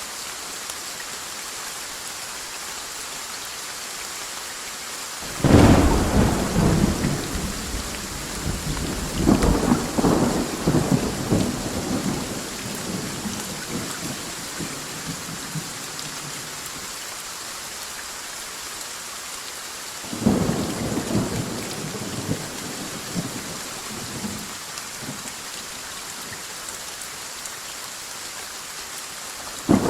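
Steady rain with thunder. A sudden loud thunderclap about five seconds in rolls on for several seconds with a second surge, another peal comes about twenty seconds in, and a third breaks right at the end.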